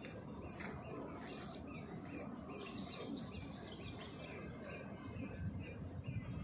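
A bird calling a short chirp over and over, about three a second, starting a couple of seconds in, over a low steady background rumble.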